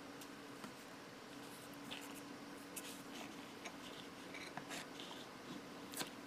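Faint scratching, rustling and small clicks of masking tape being handled, cut and pressed onto small plastic model-kit parts, over a faint steady hum.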